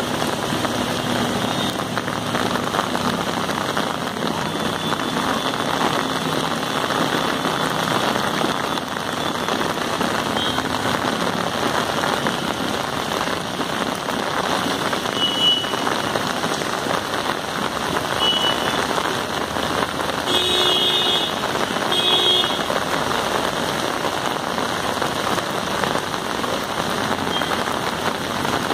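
Heavy rain pouring steadily onto a flooded street. Two short horn blasts from traffic sound about two-thirds of the way through.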